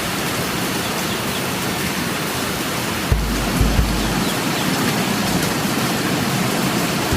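Steady heavy rain falling, an even hiss with no letup. A few low thumps come about three seconds in.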